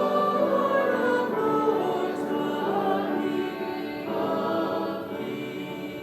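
Congregation singing a hymn together, the sound easing off in the last couple of seconds.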